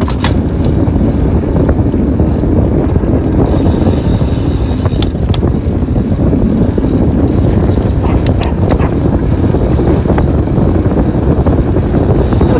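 Wind buffeting the microphone of a moving bicycle rider: a loud, steady low rumble, with a few light clicks scattered through it.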